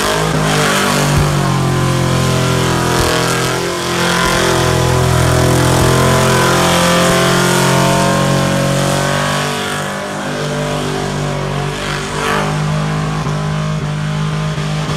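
Holden Commodore ute's LS V8 held at high revs on the rev limiter in a burnout, a steady near-constant-pitch drone over the hiss of the spinning rear tyres. A little quieter in the last few seconds.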